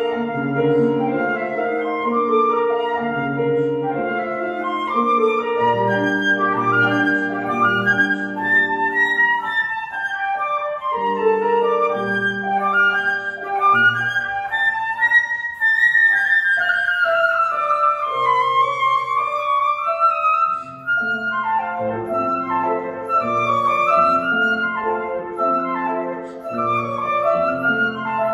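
Flute playing a lyrical melody over grand piano accompaniment in a classical flute-and-piano duo. About halfway through, the flute climbs to a high note and winds back down.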